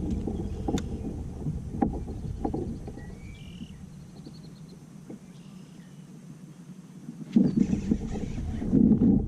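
Handling noises aboard a kayak: a few sharp knocks over the first seconds, a quieter stretch midway, then louder rustling and knocking near the end.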